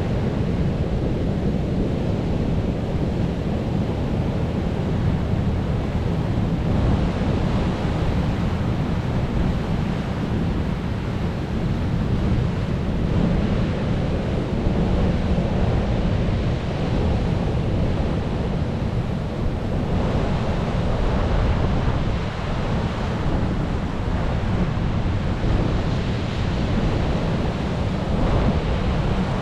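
Sea waves breaking and washing onto the shore, a continuous rush of surf that swells and eases every several seconds.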